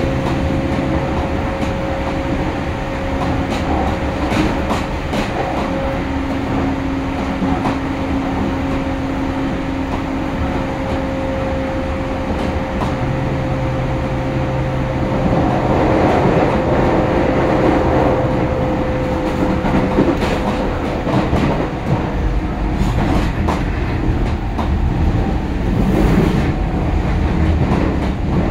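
Keio Line commuter train heard from inside the car while it runs at speed. A steady traction-motor whine sinks slowly in pitch and fades out. Rolling noise with clicks from the wheels grows louder about halfway through. Near the end a fuller rumble comes in as another train runs alongside.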